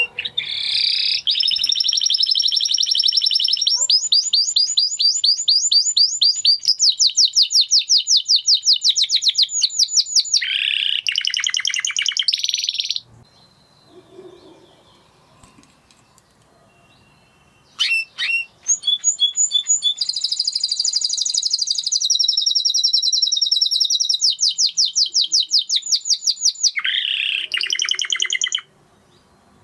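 Spanish Timbrado canary singing: two long song bouts of fast, rolling trills and rapidly repeated high notes, separated by a pause of a few seconds midway.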